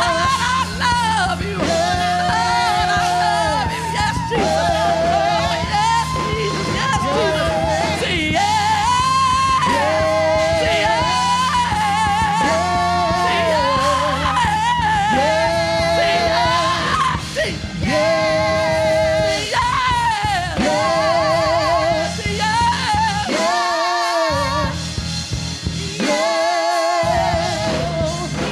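Live gospel praise-and-worship music: a singer holding long, wavering notes with heavy vibrato over sustained band accompaniment. The low accompaniment drops out briefly twice near the end.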